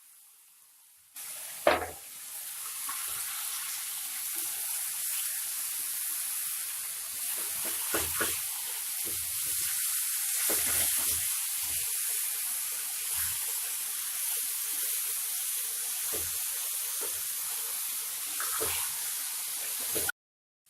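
Chicken pieces frying in hot oil with onions in a kadai. The sizzling starts suddenly about a second in with a sharp hit, then runs as a steady sizzle broken by occasional knocks of a spoon stirring. It cuts off just before the end.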